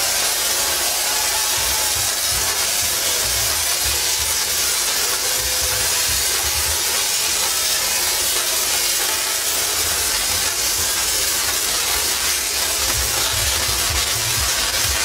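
Tesla coils discharging: a loud, steady hissing crackle of electric arcs, with uneven low rumbling underneath.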